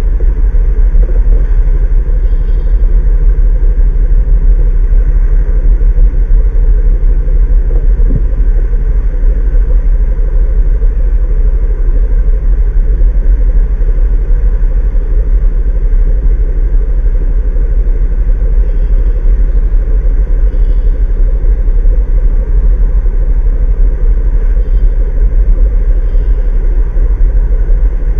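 Large truck's engine running steadily under way, a heavy, unbroken low rumble.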